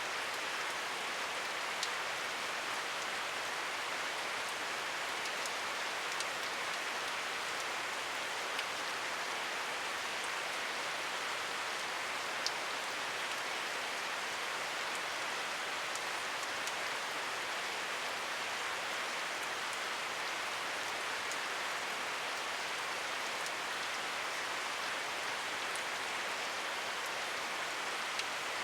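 Steady rain falling, an even hiss with now and then a single sharper drop ticking on a surface.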